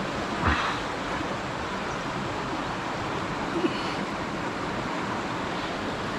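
Steady rushing of a small river's flowing water, with a short knock about half a second in and another brief small sound about three and a half seconds in.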